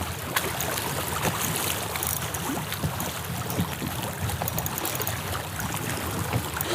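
Water lapping and splashing against a kayak's hull in a running current, with a steady low rumble of wind on the microphone.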